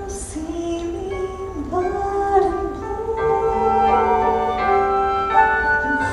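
A woman's singing voice over keyboard and pit accompaniment in a slow ballad. The melody glides through the first couple of seconds, then the music swells into sustained held chords.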